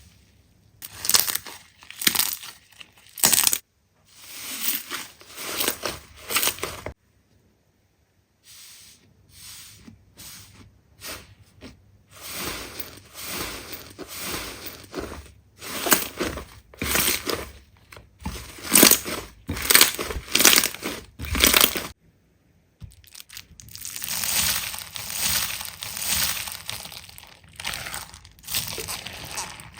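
Slime being squeezed and pressed by hand, giving repeated crackling, crunching squelches in bursts about a second long, broken by a few brief silences.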